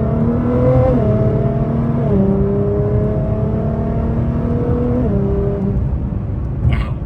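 2017 Nissan GT-R's mildly tuned 3.8-litre twin-turbo V6 pulling under acceleration, its pitch climbing and then dropping with three quick upshifts, about one, two and five seconds in.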